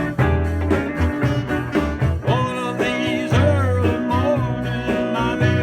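Rock/blues band music: electric guitar over a repeated bass line, with some notes sliding and bending in pitch from about two seconds in.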